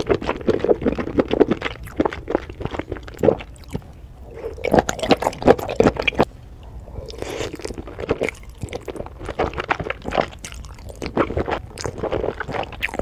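Close-miked wet, squishy chewing of spicy instant noodles in thick sauce, with many sharp sticky mouth clicks; near the end noodles are sucked in from chopsticks.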